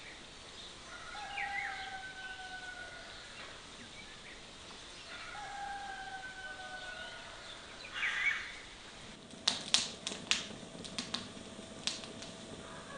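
A rooster crowing twice, each a long drawn-out call that slowly falls in pitch. Near the end comes a quick run of sharp clicks and snaps.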